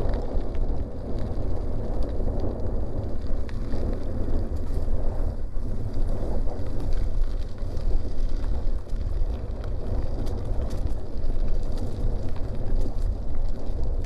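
Wind rushing over the microphone of a riding bicycle, with the tyres rolling on a gravel forest road and small scattered clicks from the stones.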